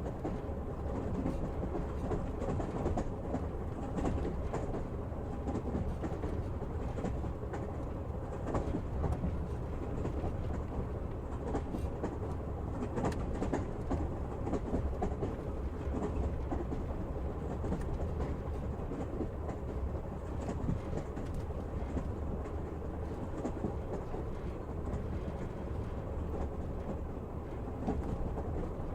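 Passenger train carriage running along the track, heard from inside: a steady low rumble with the clickety-clack of the wheels over rail joints.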